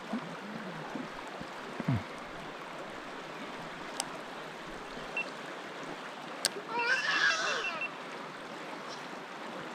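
Creek water running steadily, with two sharp clicks and a brief high-pitched vocal sound about seven seconds in.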